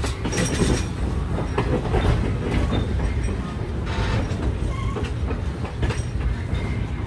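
Train rolling along the track, a steady low rumble with irregular sharp clacks of the wheels over the rails.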